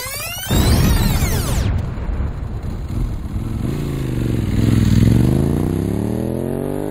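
Motorcycle engine coming in with a loud burst, running, then dropping in pitch and revving up steadily toward the end.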